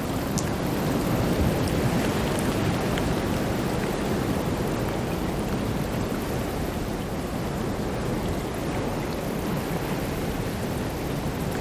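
Ocean waves breaking and washing in: a continuous deep rushing, swelling slightly a couple of seconds in.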